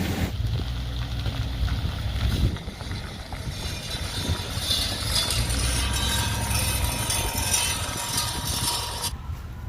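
Street traffic: passing vehicles give a low rumble and a hiss of tyres. The sound changes abruptly twice, near the start and about a second before the end.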